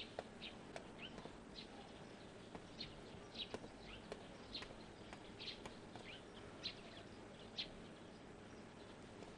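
Faint birds chirping: short high chirps scattered about once a second over a low steady hiss.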